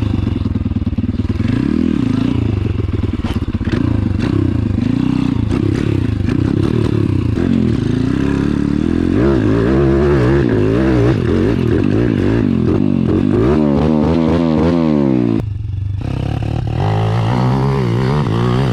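Pit bike engine running under load on a trail ride, its pitch rising and falling again and again as the throttle is opened and closed, with quick up-and-down revs in the middle.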